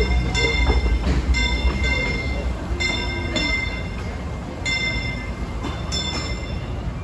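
Disneyland Railroad steam train rumbling along the station platform. The rumble is loudest at the start and eases off a little.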